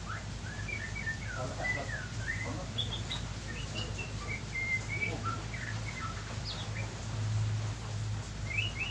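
A bird chirping over and over in short whistled notes that slide up and down in pitch, over a steady low hum.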